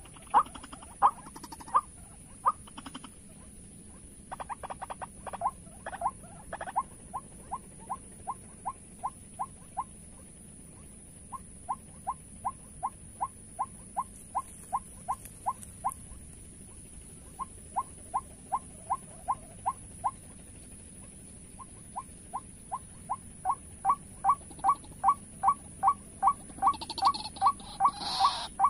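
White-breasted waterhen calling: long runs of short, clipped notes, three or four a second, broken by brief pauses. The calls grow louder near the end.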